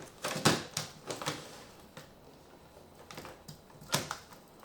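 Scattered sharp clicks and light knocks of a plastic toy and its packaging being handled: a quick cluster at first, a lull, then a few more taps near the end.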